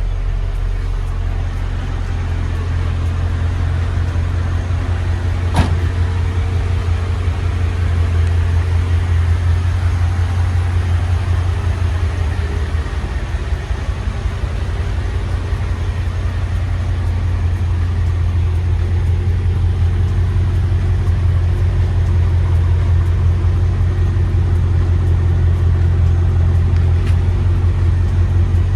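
Mercedes CL55 AMG's 5.4-litre V8 idling steadily through long-tube headers, Borla mufflers and no catalytic converters, with a deep, even exhaust note. A single sharp click about six seconds in.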